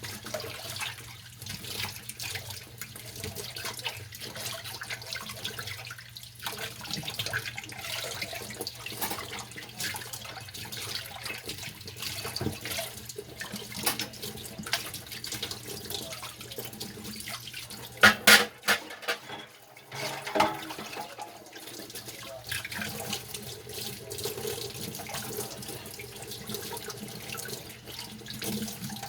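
Washing dishes by hand at a kitchen sink: the tap runs steadily while dishes and utensils clink and scrub under it, with a short run of loud clattering knocks about two-thirds of the way through.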